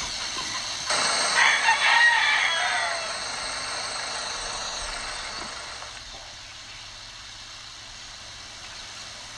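A drawn-out animal call starting about a second in and lasting about two seconds, over a steady high hiss that fades out about five seconds in.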